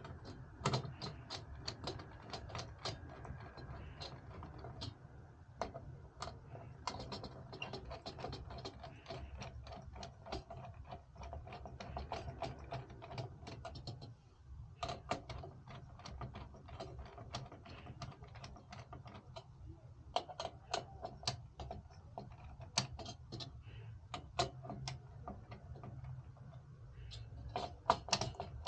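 Irregular small clicks, ticks and rattles of hardware being handled and fitted, over a steady low hum.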